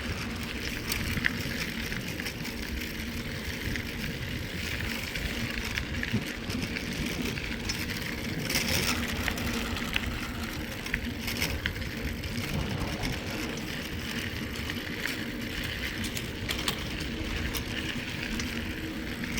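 Mountain bike rolling along a trail, heard from a handheld phone on the moving bike: steady tyre and wind noise with scattered small clicks and rattles.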